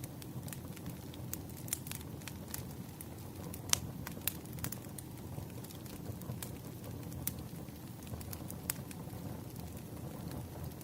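Campfire burning: a steady low rumble of flames with sharp crackles and pops at irregular intervals, the loudest pop a little under four seconds in.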